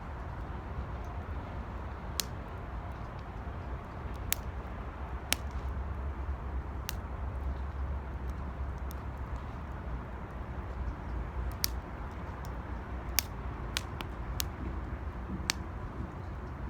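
Wood fire burning in an 18-litre square metal can, with a steady rush and low rumble and about a dozen sharp crackling pops at irregular intervals.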